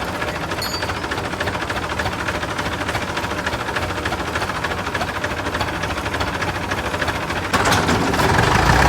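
Forklift engine running steadily with an even chugging pulse, getting suddenly louder about seven and a half seconds in as it is throttled up.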